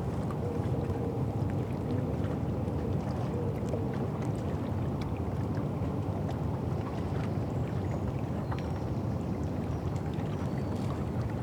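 River Thames ambience at the foreshore: a steady low rumble with faint scattered ticks and clicks over it, and a faint steady tone early on.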